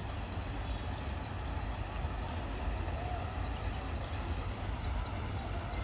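Steady low rumble of many tractor engines running together, with faint voices in the background.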